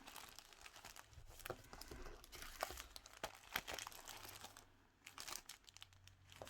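Paper being handled and shuffled: soft rustling and crinkling with scattered small clicks and taps, and a brief lull about two-thirds through.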